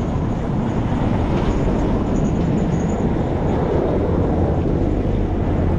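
Steady wind rush and low rumble on an action camera's microphone while riding a gravel bike on asphalt, with tyre noise from the road.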